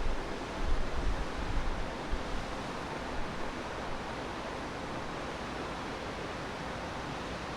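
Steady rushing noise, with low wind buffeting on the microphone during the first few seconds that then settles.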